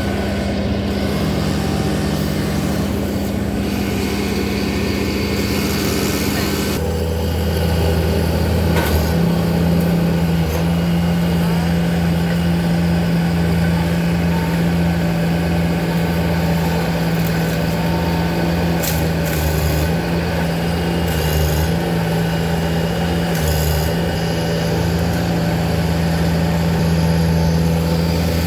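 An engine running steadily, with a slight change in its note about seven seconds in.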